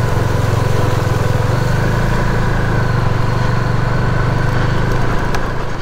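KTM RC390's single-cylinder engine running steadily at low speed in first gear as the bike rides through a shallow water crossing.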